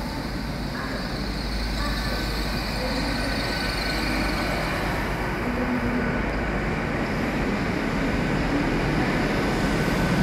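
TransPennine Express passenger train pulling into a station, a steady rumble of engine and wheels that grows slightly louder.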